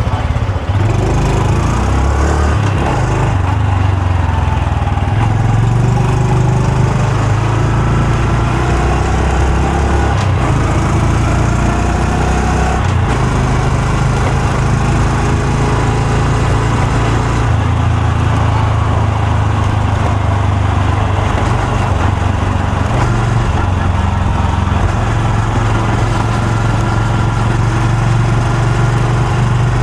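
Honda Super Cub C125's single-cylinder four-stroke engine and exhaust while riding, the engine note rising and falling several times with the throttle and gear changes.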